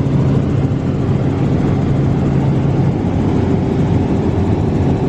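Steady, loud vehicle engine noise with a low hum that fades about three seconds in.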